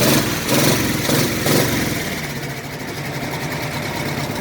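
The tow truck's 350 V8 engine idling steadily, with a few short noisy bursts over it in the first second and a half.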